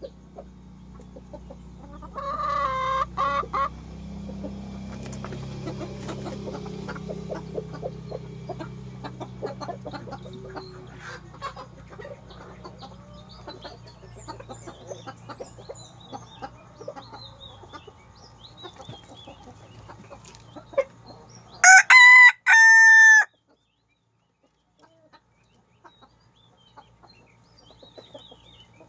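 Chickens clucking, with scattered small pecking clicks and high bird chirps, and a rooster crowing loudly about 22 seconds in; a shorter call comes about 2 seconds in.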